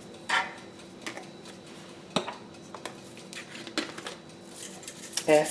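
Kitchen utensil clinking and scraping against a dish while salad ingredients are added and mixed. There are a few sharp clinks, the loudest about two seconds in, and a short hum-like sound just after the start.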